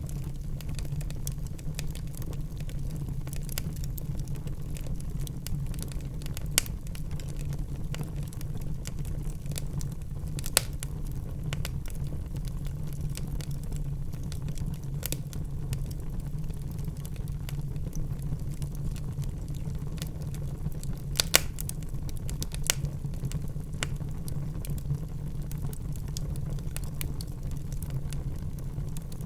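Wood fire crackling in a fireplace: a steady low rumble of burning with scattered sharp pops, a louder pair about two-thirds of the way through.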